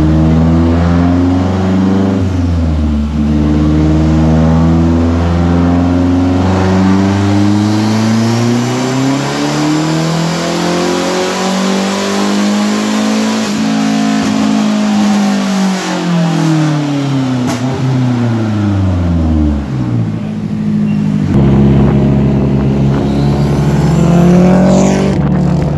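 Straight-piped Mazdaspeed3's turbocharged 2.3-litre four-cylinder running loud with no mufflers or catalytic converter. The engine speed climbs steadily and then falls away, and after a sudden change about twenty seconds in it runs at a steady pitch.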